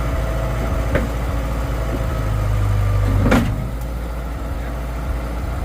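An engine idling steadily. About three seconds in, the low hum swells and ends in a sharp clunk; a lighter knock comes about a second in.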